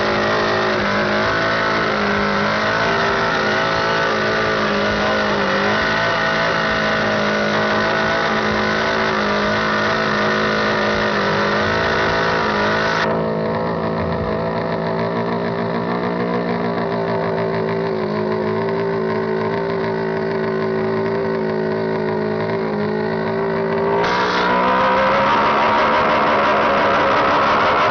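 Motorcycle engine held at high revs in a burnout, its pitch wavering slightly, with a loud hiss over it. The hiss drops away about halfway and returns a few seconds before the end as the revs climb.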